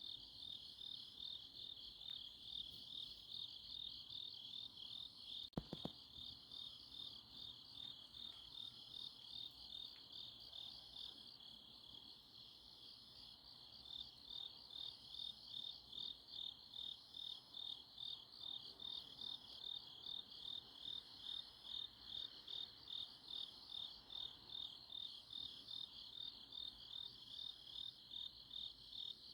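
A chorus of autumn crickets chirping in a steady pulsed rhythm of about two chirps a second, with a fainter, higher insect call behind it. A single brief knock sounds about five and a half seconds in.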